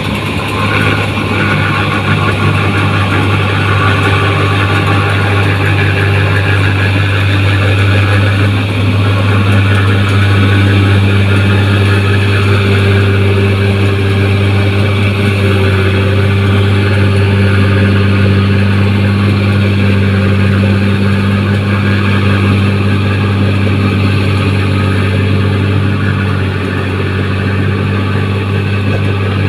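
New Holland 1545 rice combine harvester running at a steady engine speed: a loud, constant low drone that does not change.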